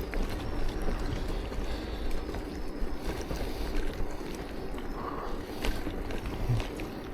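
Wind rushing over the microphone of a camera on a moving bicycle, a steady uneven rumble with a few faint clicks.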